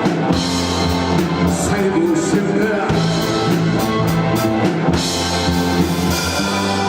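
Live rock band playing an instrumental passage, with a drum kit keeping a steady beat under electric guitar and sustained bass notes.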